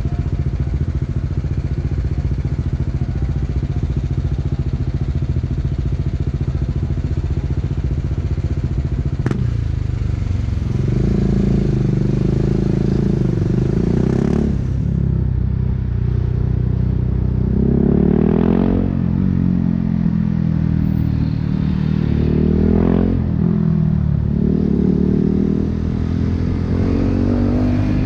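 2018 BMW G 310 R's single-cylinder engine through an Akrapovic racing exhaust, idling steadily. About ten seconds in it pulls away, its note climbing and then dropping back at each gear change, several times over.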